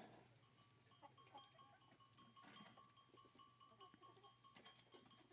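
Near silence: a faint steady high tone with a few faint ticks.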